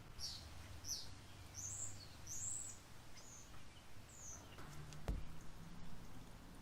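Small birds chirping: a series of about six short, high, down-sweeping chirps over a faint low hum, then a single sharp click about five seconds in.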